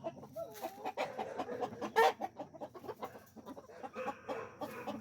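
Hens clucking in short, repeated calls, the loudest about two seconds in, among scattered light clicks and taps.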